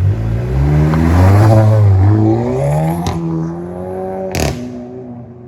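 Volkswagen Golf GTI's 2.0 TSI turbo four-cylinder accelerating through the gears, its pitch climbing and dropping at each shift. Two sharp exhaust pops, about three and four and a half seconds in, come through the modified muffler.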